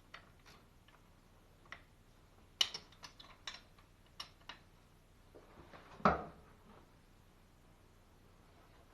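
Scattered metallic clicks and knocks of plumbing fittings and tools being handled, with a cluster a few seconds in and a heavier knock about six seconds in.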